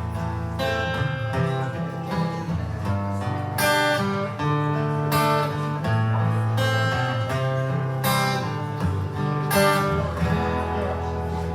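Acoustic guitar strumming chords as the instrumental intro to a country-style song, live, with strong downstrokes every second or two.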